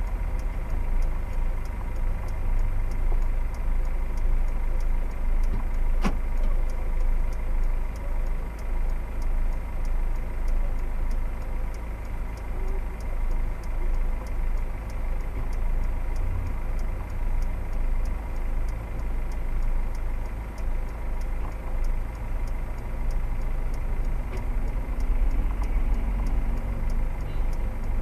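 A motor vehicle driving on the road, with a steady low engine and road rumble and a faint, even ticking over it. There is a single sharp click about six seconds in.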